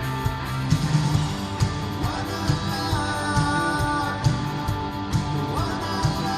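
Live rock band playing: electric guitars and drums, with a sung vocal line entering about two seconds in and holding long notes.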